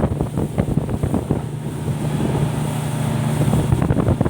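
Motorboat engine running steadily with a low hum, under gusts of wind buffeting the microphone and water splashing.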